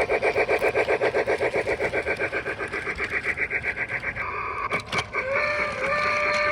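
A model train's sound effects: a rapid pulsing sound of about seven beats a second, then, from about five seconds in, a held horn tone that rises slightly in pitch.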